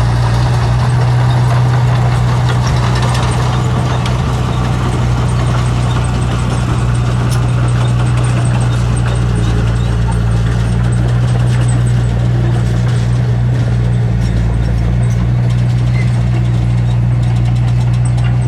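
Heavy diesel engine of earthmoving equipment running steadily at an even speed: a loud, unchanging low hum with faint ticking above it.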